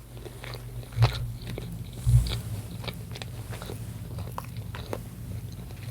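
Close-up mouth sounds of a person chewing a bite of ribeye steak: many small wet clicks and smacks. Two dull low thumps come about one and two seconds in.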